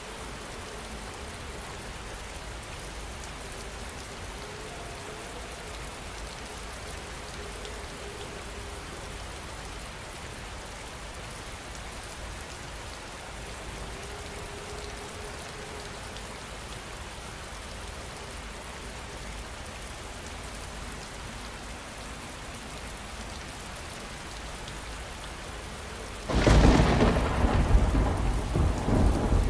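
Steady rain falling, with a loud clap of thunder breaking in near the end and rumbling on for a few seconds.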